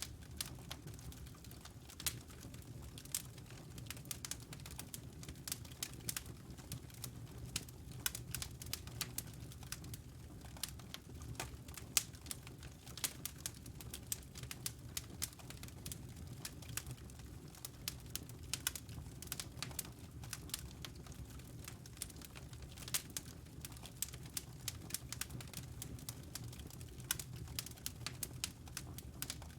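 Wood fire crackling in a fireplace: irregular sharp snaps and pops, several a second, over a steady low rumble of the burning logs.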